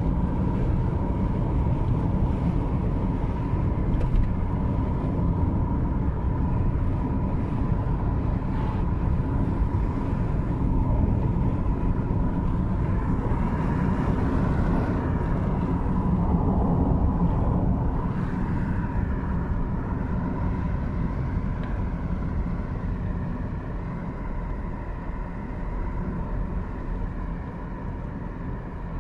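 Car driving along a road: steady rumble of tyres and engine with a thin steady whine, getting a little quieter over the last several seconds.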